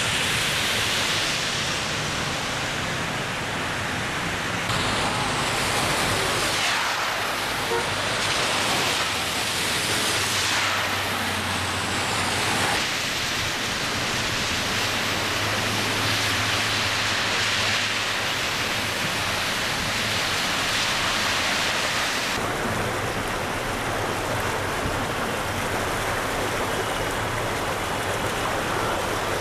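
Steady hiss of heavy rain with running water, its texture changing abruptly three times.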